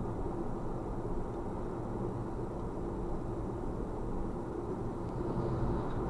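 Steady low rumble of a car in motion: engine and tyre-on-road noise, with no impacts.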